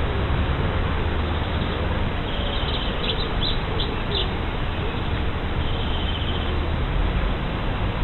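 Steady outdoor background noise with a few short bird chirps about three seconds in and a brief run of faint chirps near six seconds.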